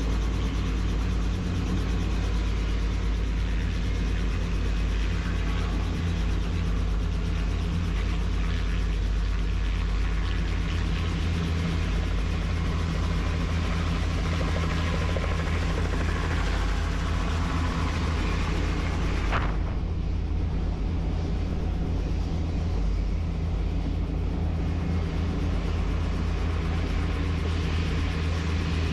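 Helicopter in flight: a steady drone of rotor and engine, with a brief click about two-thirds of the way through, after which the high hiss is duller.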